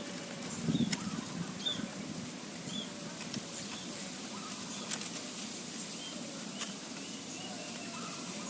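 Outdoor birdsong ambience: a zebra dove's soft coos in the first second or so, then a steady background hiss with faint short chirps from small birds and a few light clicks.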